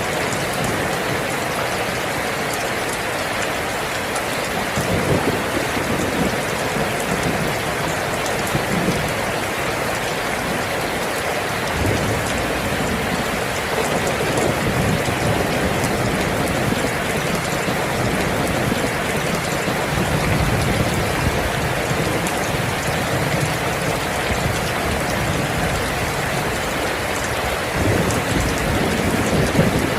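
Steady rain with low rumbles of thunder that swell and fade several times.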